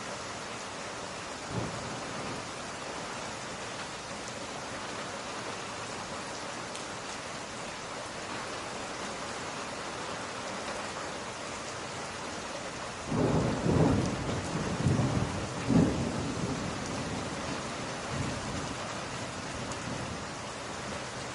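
Steady rain with a low roll of thunder that swells for about three seconds past the middle and fades off, after a brief low thump near the start.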